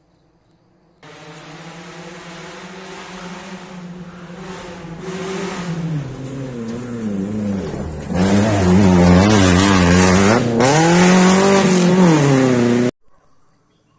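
Rally car engine revving hard, its pitch rising and falling with throttle and gear changes, growing louder as the car approaches and loudest in the second half. The sound starts and stops abruptly.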